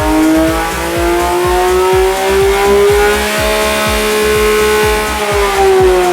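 2022 Porsche 911 GT3's naturally aspirated flat-six engine revving hard, its pitch climbing slowly and then falling away near the end.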